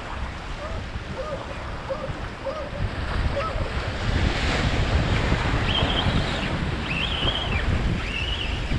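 Surf washing on the beach and wind buffeting the microphone, swelling about a third of the way in. A series of short, repeated high chirps runs through the second half.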